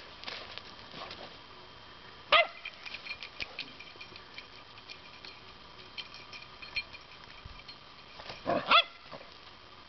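Dog giving short barks: one sharp bark a little over two seconds in, then two or three more close together near the end.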